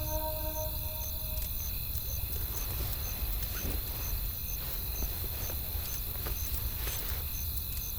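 Campfire crackling, with scattered snaps and pops over a steady low rumble, while a faint high chirp repeats about twice a second. The held tones of the music die away in the first second.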